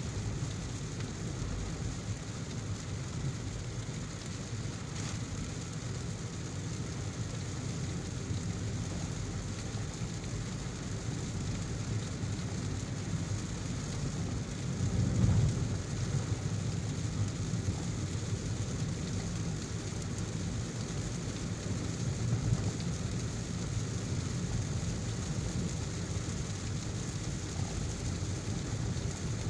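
Steady heavy rain with the low rumble of a car driving through it. A brief, louder low rumbling swell comes about halfway through.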